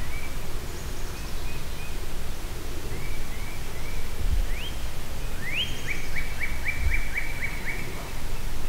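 Songbirds calling: repeated short rising chirps, then about halfway through two upward-sweeping whistles followed by a quick run of about eight rising notes. A steady low rumble runs underneath.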